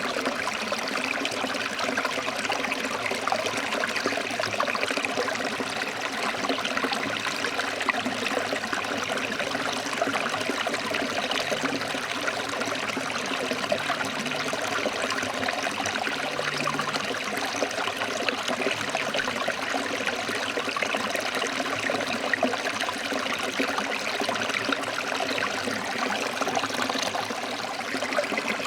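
Forest stream flowing over rocks, a steady rushing and trickling of water.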